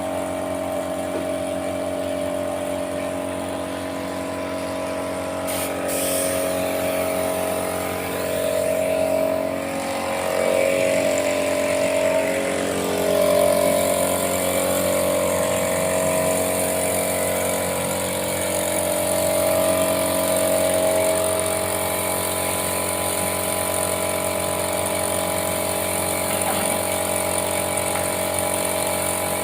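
A motor-driven machine running steadily, with a wavering tone in the middle stretch that then settles again.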